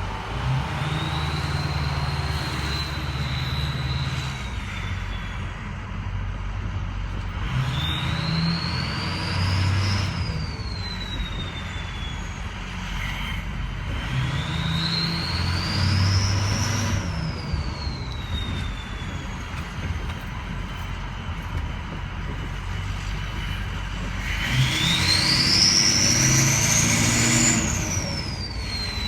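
2006 Ford F-250's 6.0 Powerstroke V8 diesel, with a Garrett Powermax turbo and a straight pipe, revved four times. The turbo whistle climbs in pitch with each rev and falls away as the turbo spools down, and the last rev climbs highest.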